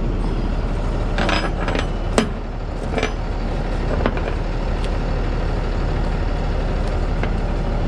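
Truck engine idling steadily. Over it come several sharp metallic clinks in the first half, from tie-down chain and strap hardware being handled.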